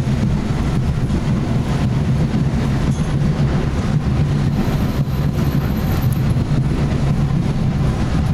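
Several drums beaten together in a dense, unbroken rhythm.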